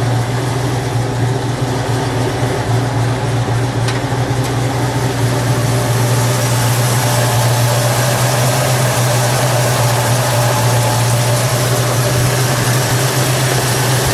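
1970 Ford Torino GT's 351 cubic-inch V8 idling steadily.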